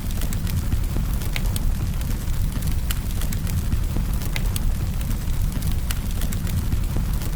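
Campfire burning: a steady low rumble of flames with sharp crackles and pops of burning wood at irregular intervals.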